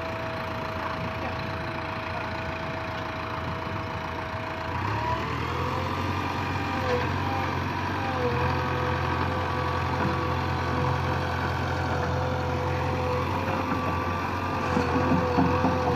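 JCB 3DX backhoe loader's diesel engine running with a steady whine over it. About five seconds in the engine note grows heavier and louder, as if put under load, and a wavering whine rides over it; it swells again near the end.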